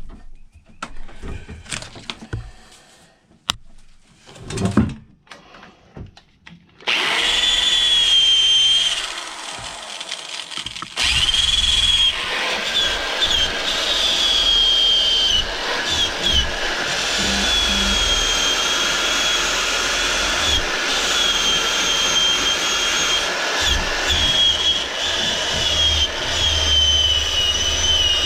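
Scattered knocks and handling clicks, then about seven seconds in a handheld power tool starts up. It runs steadily with a high whine that sags and recovers as it bears on the steel axe head, sanding off the rust.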